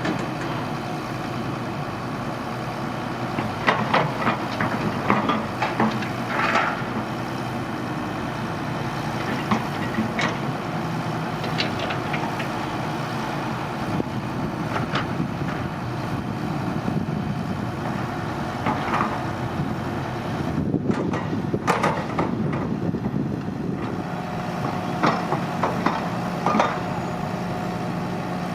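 Excavator diesel engine running steadily, with scattered metallic clanks and knocks as the machine digs.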